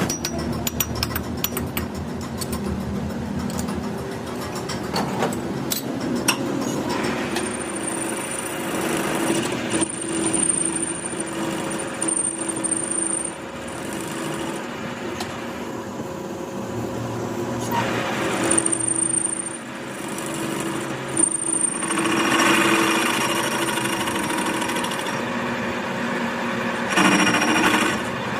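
Power tool working on metal, rapid mechanical hammering in runs that start and stop several times, with clicks and clatter between them.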